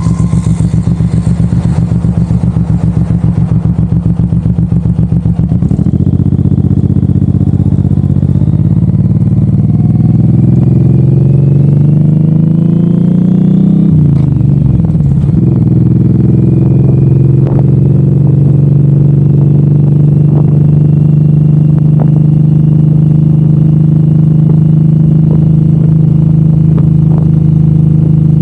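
Suzuki M109R's 1783 cc V-twin running at low, pulsing revs, then opening up about six seconds in with revs climbing. The revs drop sharply about halfway through as it shifts gear, and it then runs steadily at cruising speed.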